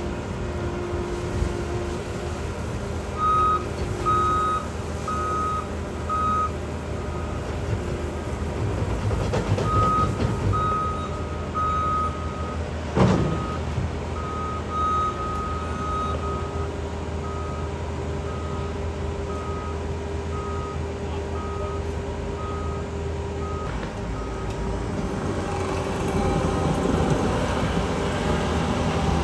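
Diesel engine of a small excavator running with a steady low drone, while a reversing alarm beeps repeatedly, about one to two beeps a second, through most of the time before stopping. One sharp knock stands out about halfway through.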